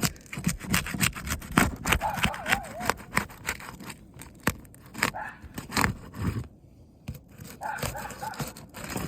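A shingle-removal bar being worked under asphalt roof shingles, making repeated scraping and ripping strokes as the sealant strips are broken loose. There is a short lull about two-thirds of the way through.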